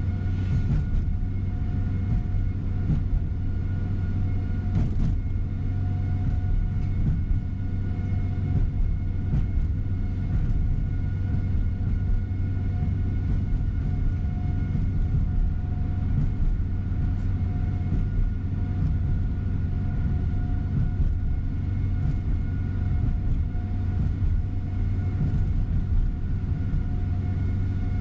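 Steady engine and road noise inside the cabin of a large tour coach cruising at an even speed: a continuous low drone with a few faint, steady whining tones over it.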